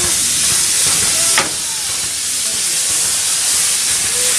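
Steam locomotive hissing steadily as it vents steam, with one sharp click about a second and a half in, after which the hiss is a little quieter.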